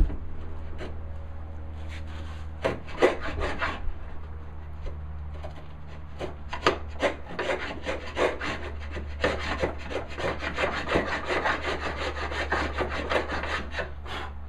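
Hand router plane shaving the bottom of a dado in walnut: short, repeated scraping strokes, coming closer together from about halfway.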